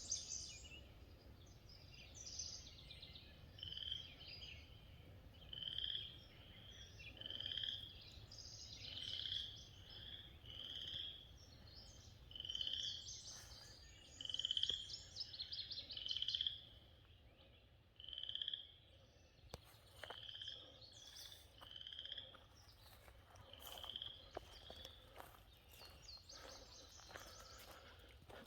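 Frogs calling: short high peeps repeated about once a second, with birds trilling over them.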